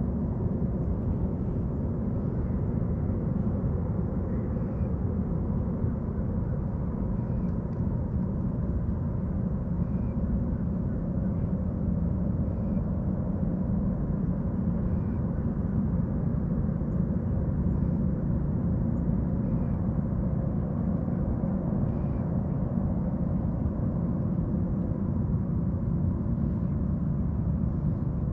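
Steady low rumble of waterfront ambience, with a faint short bird chirp repeating about every two to three seconds.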